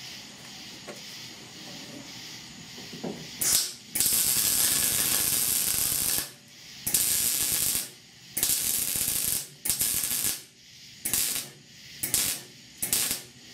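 Welding arc crackling in a series of bursts, plug welding the drilled holes in the C10's roof sheet metal: one long burst of about two seconds, then a run of shorter bursts.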